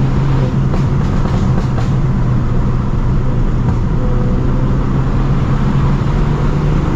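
Straight-piped, Stage 2+ tuned BMW F30 328i's turbocharged four-cylinder exhaust droning loudly while driving. The note holds steady and rises slightly near the end.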